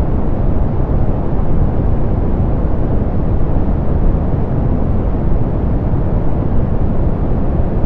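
Steady synthetic pink noise, softened so that most of its energy sits in the lows and the highs fall away, giving a deep, even hiss with no changes.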